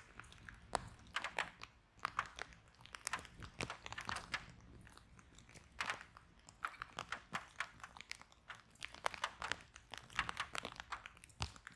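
Wood fire burning in a fireplace: irregular crackles and sharp pops of burning logs, several close together in quick clusters, over a soft low hiss.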